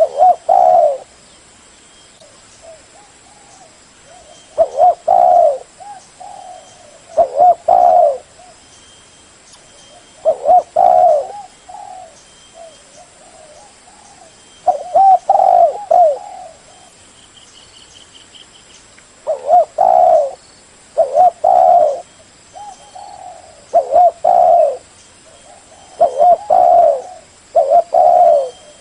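Spotted dove cooing: loud phrases of low, rounded coos, each about a second long, repeating every two to four seconds, with softer coos in between.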